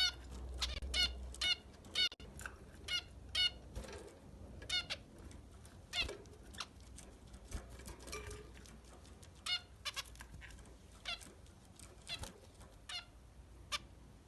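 Amadina finches (small estrildid finches) giving many short, nasal, stacked calls one after another at an irregular pace.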